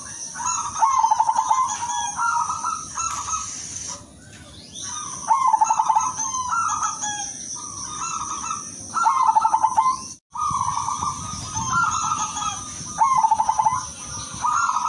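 Silver-coloured zebra dove (perkutut) cooing: repeated phrases of quick, trilled coos, a new phrase about every four seconds. A steady high hiss runs underneath, and the sound cuts out for an instant just after ten seconds in.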